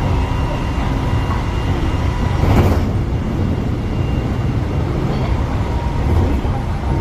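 Train running at speed: a steady low rumble of wheels on rail with faint steady tones above it, and a brief louder rush about two and a half seconds in.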